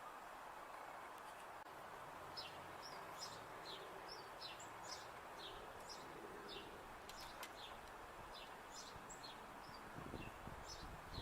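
Small birds chirping: faint, short high notes repeating every half second or so over a steady background hiss, with a few low rumbles near the end.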